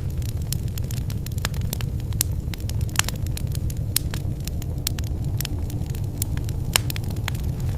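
Wood fire burning in a fireplace: a steady low rumble of flames with irregular sharp crackles and a few louder pops, the loudest near the end.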